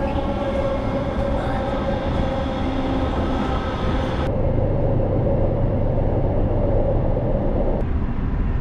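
Electric suburban passenger train running: a steady whine over a low rumble. The upper hiss drops away abruptly about four seconds in, and the whine stops near the end.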